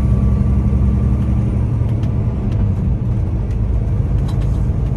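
Tractor-trailer's diesel engine running with road noise, a steady low rumble heard from inside the cab, with a few faint clicks.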